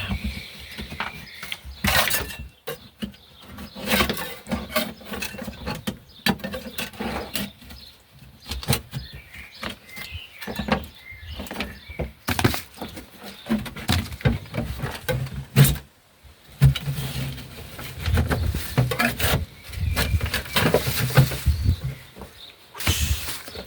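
Irregular scraping, cracking and knocking as wet, softened sound-deadening is scraped and prised off a car's floor pan.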